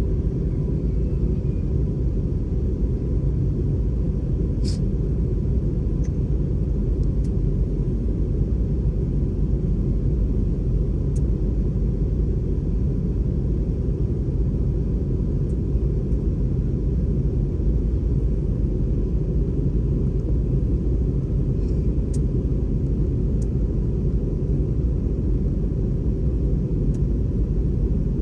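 Steady low rumble of an Airbus A320's cabin in flight, engine and airflow noise, with a faint steady tone over it and a few brief ticks.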